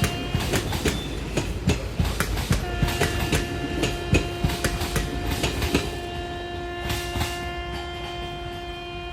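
Train wheels clattering over rail joints in a quick, irregular run of clicks, while the WAP-4 electric locomotive's horn sounds. The horn ends just after the start, then sounds again about two and a half seconds in as one long steady blast. The clatter grows fainter in the second half.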